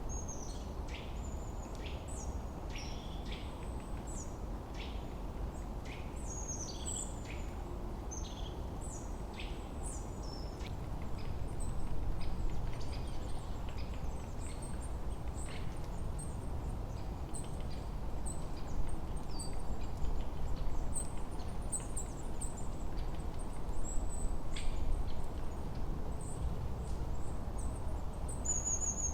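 Small songbirds chirping in quick downward-sliding notes, busiest in the first half and thinning out later, over a steady low rush of wind that swells a little now and then.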